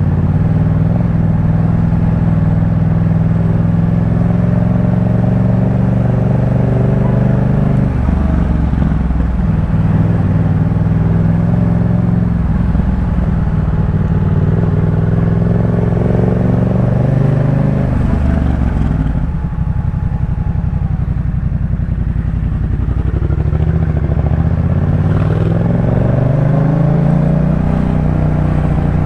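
Yamaha MT-07's parallel-twin engine through a Jeskap K4 full exhaust, under way: the engine note rises and falls with the throttle, eases off about two-thirds through, then climbs again near the end.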